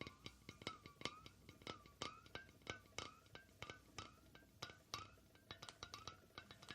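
ASMR tapping: quick, irregular taps, several a second, with a faint ringing tone after many of them.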